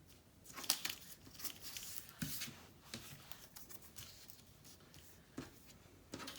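Paper rustling and crinkling as paper pieces are handled and shifted on a work surface, busiest in the first couple of seconds, with a few light taps later on.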